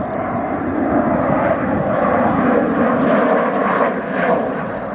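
Loud, steady jet noise from an RAF Tornado GR4's twin RB199 turbofan engines.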